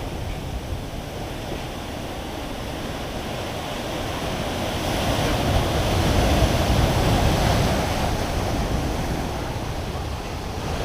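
Heavy storm swell surging and breaking on the shore, the churning surf swelling louder about halfway through and then easing, with wind rumbling on the microphone.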